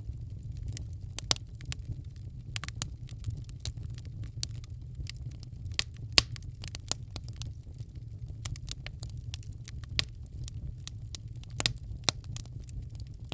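Wood fire crackling in a fireplace: irregular sharp pops and snaps over a steady low rumble of the burning fire, the loudest pops a little after six seconds and at about ten seconds.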